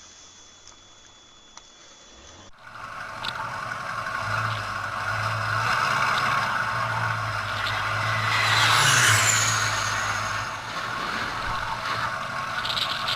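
Aircraft noise that starts suddenly about two and a half seconds in, builds and peaks near the middle with a falling high whine as the plane passes close, then eases off.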